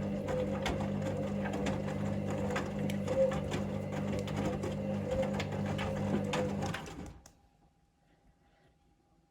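Hoover Link washing machine tumbling its drum in the main wash: a steady motor hum with repeated light clicks. It stops suddenly about seven seconds in as the drum comes to rest, leaving near silence.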